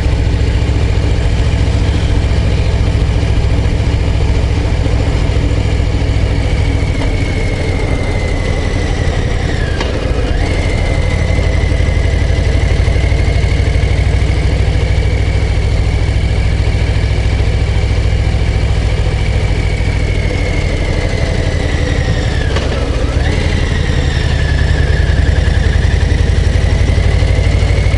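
Harley-Davidson Low Rider ST's V-twin engine and exhaust running steadily while riding. Twice, about ten seconds in and again near twenty-three seconds, its pitch sags and then jumps back up.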